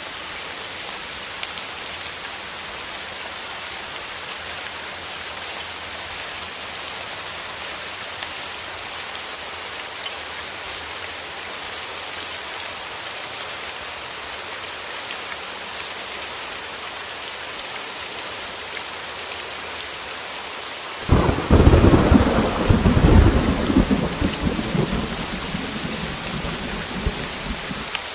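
Heavy rain falling steadily on a window, with a loud thunderclap about three-quarters of the way through that rumbles and dies away over several seconds.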